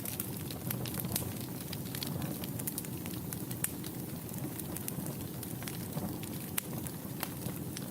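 Wood fire burning in a fireplace, with a steady low rush of flames under frequent sharp, irregular crackles and pops.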